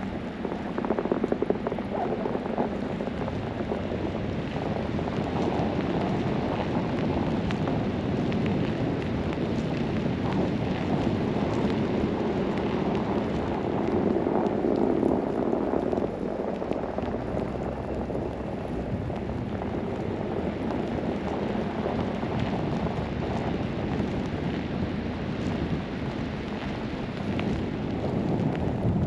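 Steady rumble and rush of a vehicle driving on a snowy road, swelling slightly a couple of times.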